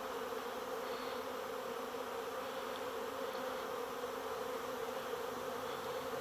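A large honey bee swarm buzzing, a steady, unbroken hum from many bees at once.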